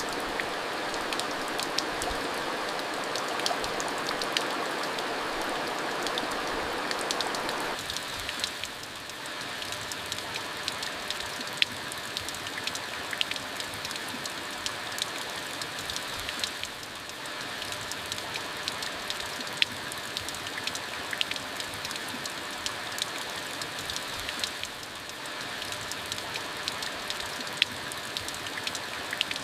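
Steady rain falling, a continuous hiss with many individual drops ticking sharply on a surface. It is heavier for about the first eight seconds, then eases a little, with brief lulls twice more.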